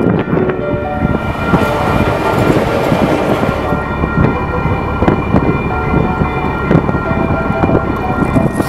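Train running on rails: a loud, continuous rumble with several steady high tones held over it.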